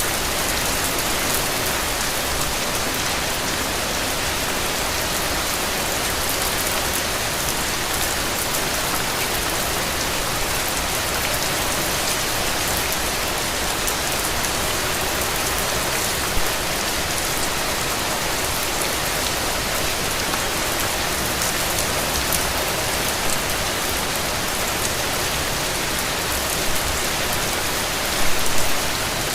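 Steady rain falling on a hard surface, an even dense hiss. There are a few louder taps: one about halfway through and a short cluster near the end.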